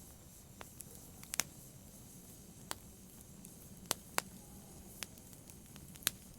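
Wood fire in a fireplace crackling: sharp, irregular pops and snaps over a soft, steady hiss. The loudest snaps come about a second and a half in, twice close together near the middle, and once near the end.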